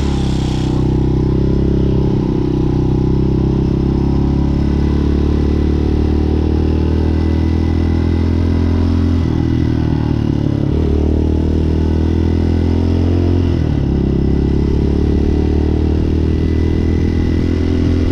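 Hawk 250 motorcycle engine running steadily, its pitch dipping briefly a few times around the middle and again about two-thirds through.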